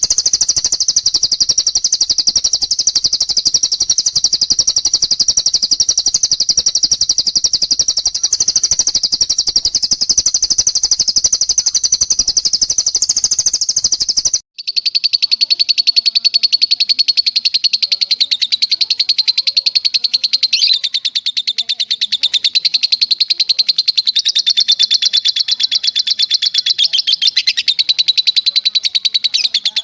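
Recorded bird trills for training songbirds: a long, very rapid, high-pitched trill of cililin or lovebird 'long shot' song. About halfway through it cuts off abruptly and is replaced by a lower rapid trill that steps slightly up and down in pitch.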